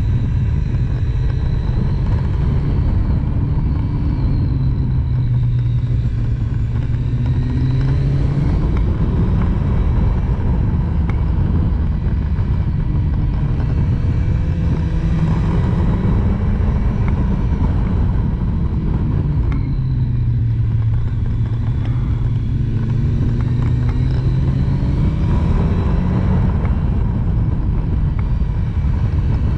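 Triumph Street Triple's inline three-cylinder engine under way, its revs climbing and dropping again and again as it is ridden through a run of bends, over a steady rush of wind noise.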